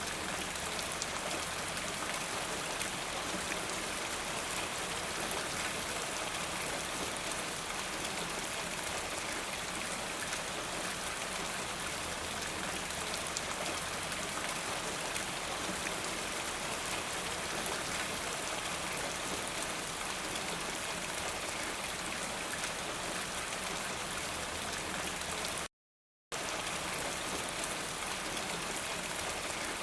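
Steady rain falling, a constant even hiss of many drops. It cuts out completely for about half a second near the end.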